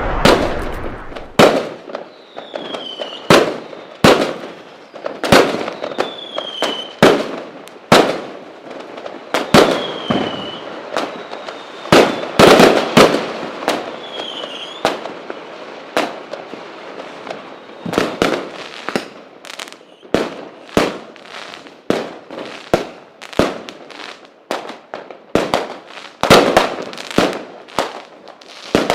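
Fireworks display: a long run of sharp bangs from bursting shells, each with a short echo, coming thicker in the second half. A few short whistles falling in pitch sound between the bangs in the first half.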